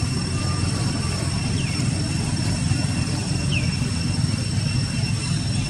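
Steady low rumbling background noise under a constant high-pitched whine, with three short falling chirps.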